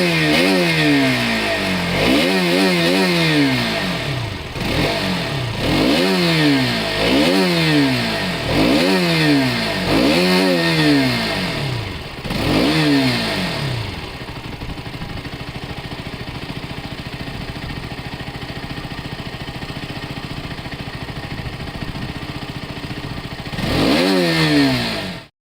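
Motorcycle engine having its throttle blipped over and over, the pitch rising and falling about every second and a half. It then settles into a steady idle, gets one last rev near the end, and cuts off abruptly.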